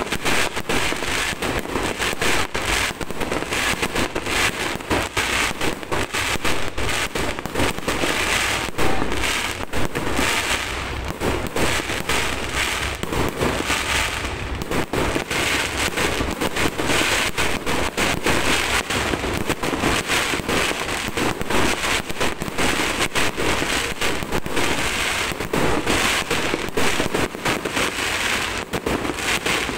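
Aerial fireworks going off in quick succession: a dense, unbroken crackle of pops.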